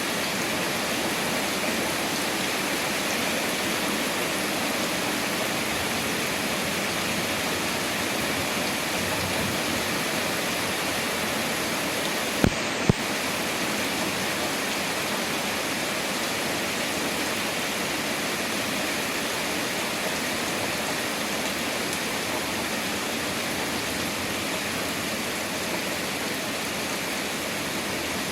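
Rain falling steadily in a thunderstorm, an even hiss, with two sharp clicks about half a second apart near the middle.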